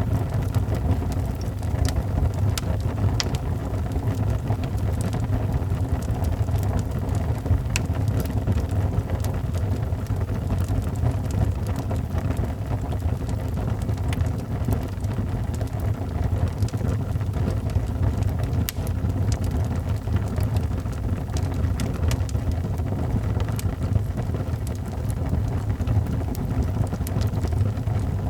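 Wood fire in a fireplace burning with a steady low rumble and scattered sharp crackles and pops.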